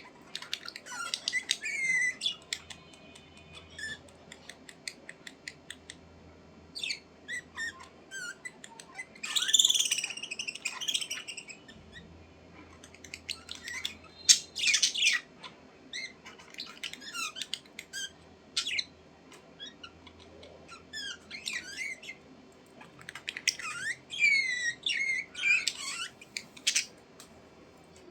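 Budgerigars chattering: bursts of quick chirps, warbling trills and sharp squawks in several spells, with short pauses between them.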